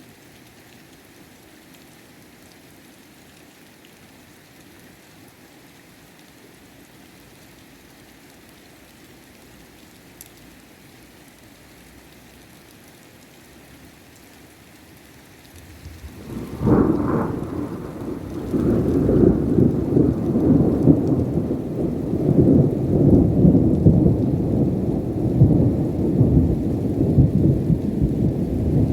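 Steady rain, then a little over halfway through a sudden loud thunderclap breaks and rolls on into a long, deep rumble of thunder over the rain.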